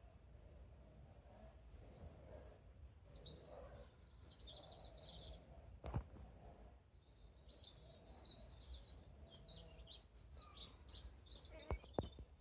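Small songbirds twittering and chirping faintly in quick, high phrases, with a sharp click about halfway through and two more close together near the end.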